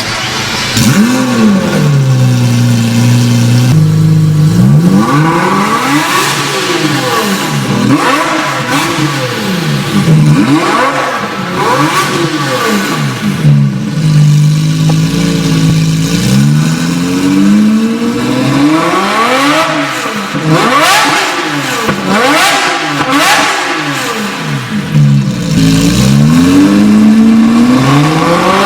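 Lamborghini Murciélago LP640's V12 through an Armytrix titanium exhaust, idling and revved over and over, the pitch climbing and dropping back with each blip, with a couple of longer steady idle stretches between.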